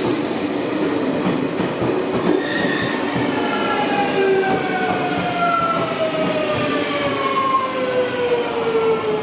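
A train pulls into the station: a steady rumble of wheels on the rails, and from about two seconds in a whine of several tones that falls steadily in pitch as the train slows.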